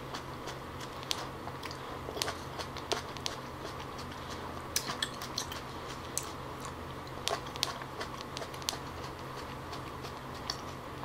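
Close-miked mouth sounds of biting into and chewing cherry tomatoes: irregular small wet clicks and pops.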